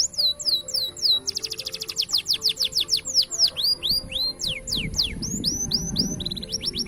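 Green canary singing a long song: rapid trills of repeated sweeping notes, the note type changing every second or so, over faint background music.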